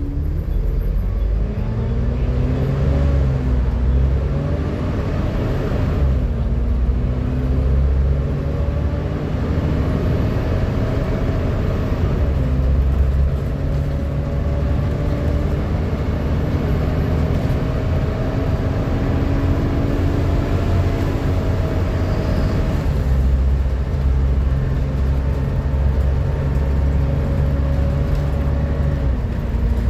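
Volvo B7TL double-decker bus's six-cylinder diesel engine and drivetrain driving along, with a loud hoover-like whine over the engine's rumble that rises in pitch as the bus accelerates, drops at each gear change and climbs again, several times over.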